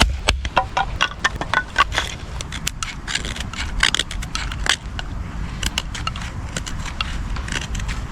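Sticks and kindling being snapped and handled for a campfire: a rapid, irregular run of sharp cracks and crunches, densest in the first few seconds, over a low wind rumble on the microphone.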